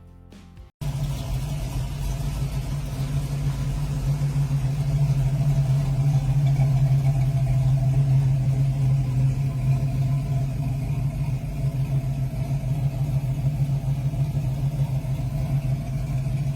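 The running engine of a built 1979 Ford Mustang with full headers and side-exit exhaust. It is a steady, deep drone that cuts in suddenly just under a second in and grows a little louder a few seconds later.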